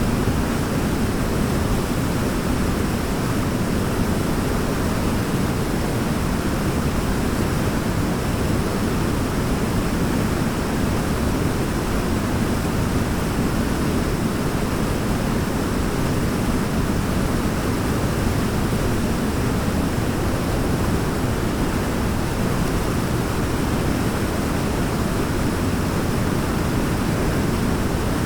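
Forest waterfall, water falling in an even, unbroken rush that holds steady throughout.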